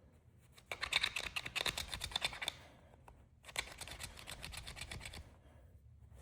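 Small screwdriver scratching and clicking rapidly against the inside of a pocketknife, in two spells of about two seconds each.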